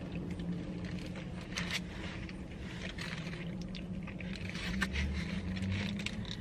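A person chewing a mouthful of cheeseburger, with small crinkles of its foil-lined paper wrapper, over the steady low hum of an idling car inside the cabin.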